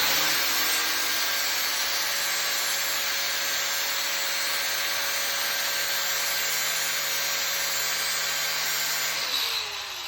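Angle grinder grinding the land (root face) of a weld bevel, a steady grinding noise with a motor whine. About nine seconds in it is switched off and spins down with a falling whine.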